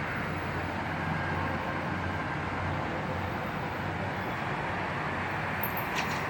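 Steady low rumble and hiss of vehicle noise, with a couple of faint clicks near the end.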